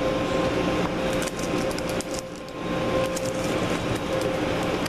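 Steady machinery hum with a constant mid-pitched tone, with a run of light ticks and clicks in the middle.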